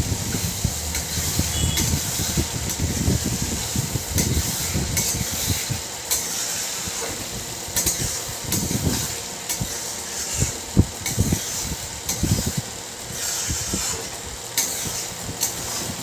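Ground masala paste sizzling in ghee and mustard oil in an iron kadai, with a steady frying hiss and now and then a steel spatula scraping the pan.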